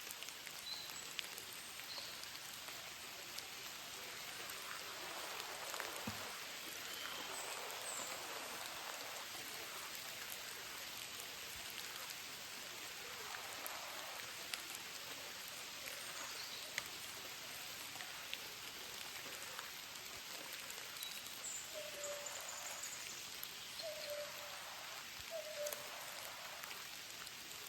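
Steady rain falling, with frequent sharp taps of individual drops and a few short chirps near the end.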